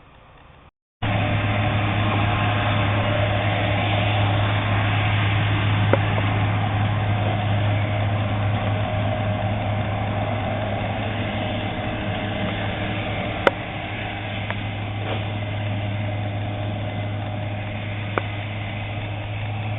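A machine running steadily with a constant low hum and a rough even noise over it, starting abruptly about a second in, with a few sharp clicks here and there.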